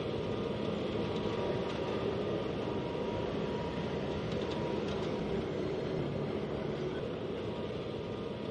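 Steady running noise of a train travelling along the track, easing off slightly near the end.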